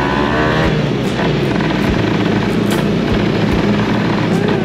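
Kawasaki Ninja 150 SS single-cylinder two-stroke engine running under way. Its pitch climbs in the first second, then it holds a steady drone.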